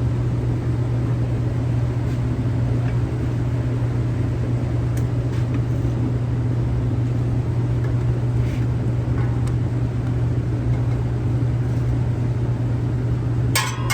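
Dodge shop truck's engine idling with a steady, even hum. A brief metallic clank comes near the end.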